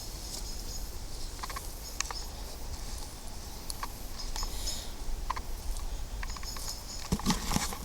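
Outdoor ambience in grassland: short high-pitched insect chirps come and go every second or two over a low steady rumble, with a few faint clicks and rustles, likely footsteps in vegetation.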